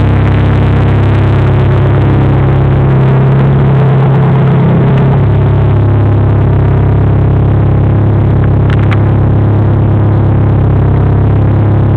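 Turbocharged Lancia Dedra 2.0 8V four-cylinder engine in an Alfa 145, idling steadily after the revs settle.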